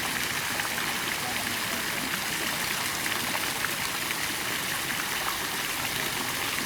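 Steady splashing and trickling of running water into a goldfish pond, like a small fountain or waterfall feature running continuously.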